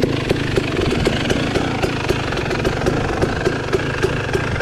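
Dirt bike engine idling steadily, with a regular sharp tick about four times a second.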